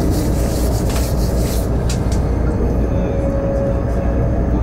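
Steady rumble and rushing of a moving train, heard from inside the passenger car, with a brief hissing surge in the first second or so.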